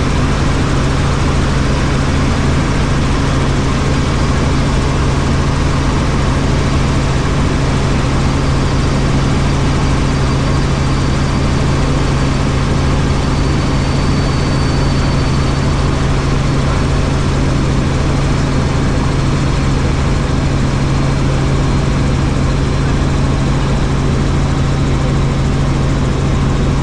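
Helicopter in flight: loud, steady engine and rotor noise with a strong constant low hum.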